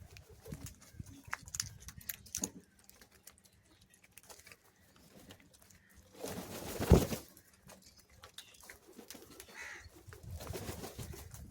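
Birds at a feeding spot: scattered light taps and rustles, with one loud harsh sound about seven seconds in.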